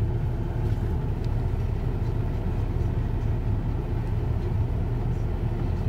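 Porsche Cayenne Turbo's twin-turbo V8 breathing through a Tubi aftermarket exhaust, heard from inside the cabin while cruising: a steady low drone mixed with road noise, with no revving.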